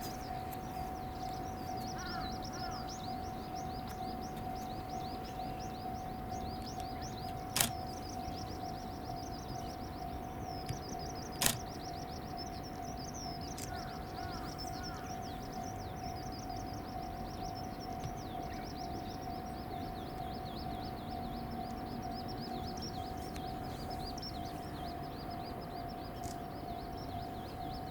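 Outdoor ambience of small birds chirping and twittering continuously, over a constant steady hum. Two sharp clicks stand out, about seven and eleven seconds in.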